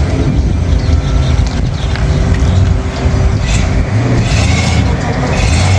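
Hot rod engine running loud with a low, uneven rumble.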